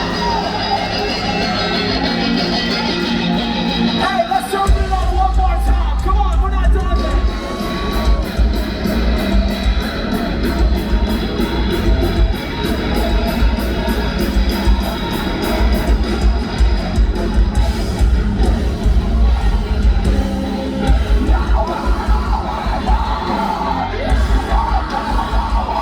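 Post-hardcore band playing live through a PA: guitars with sung and yelled vocals over a steady loud mix. About four and a half seconds in, the low end gets much heavier as the full band comes in.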